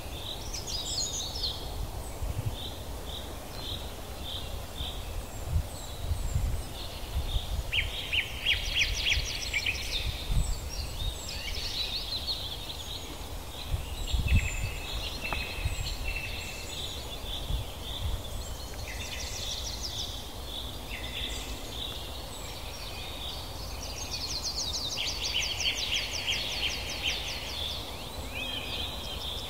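Several songbirds singing at once: overlapping chirps and rapid buzzy trills, over a low background rumble.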